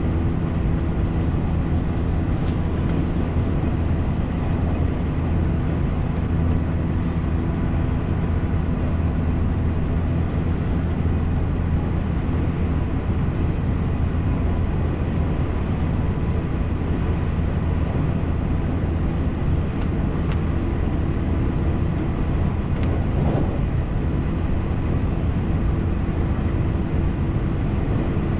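JR Central 313 series electric train running along the line, heard from inside the passenger car: a steady low rumble of the wheels on the rails with faint constant tones above it.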